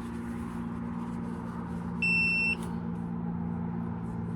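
A single electronic beep, about half a second long, a little before midway, over a steady low hum.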